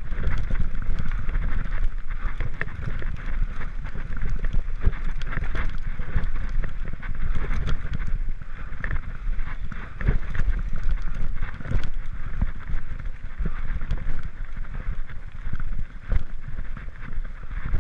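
Mountain bike ridden along a dirt trail: a steady rumble of tyres on the ground, with many short knocks and rattles from bumps, and wind buffeting the microphone.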